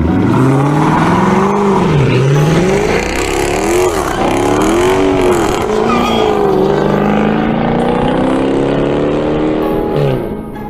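A car engine revving hard: its pitch climbs and falls in several quick blips, then is held high for a few seconds before dropping away near the end.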